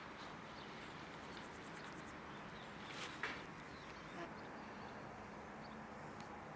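Quiet outdoor garden ambience with faint bird calls and insects, and a brief louder noise about three seconds in.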